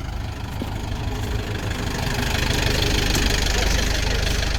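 Tractor engine running steadily, picking up and getting louder about a second and a half in, as if under load while lifting.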